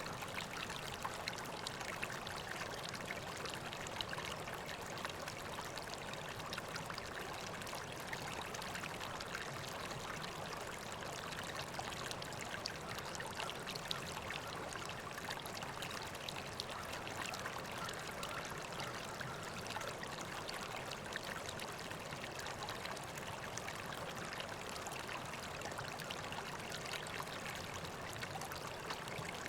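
River water flowing steadily over rocks, an even rushing and trickling with small splashes.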